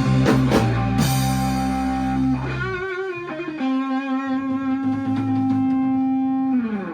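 Live blues band closing a song on electric guitar: the drums and bass drop out about three seconds in, leaving held guitar notes with bends and vibrato that slide down and fade out at the end.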